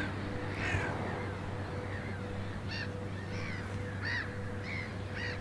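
Birds giving a run of short, harsh calls, about two a second, over a steady low hum.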